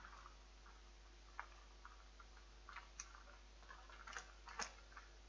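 Near silence with a few faint, scattered clicks: small mouth noises of chewing a chocolate truffle.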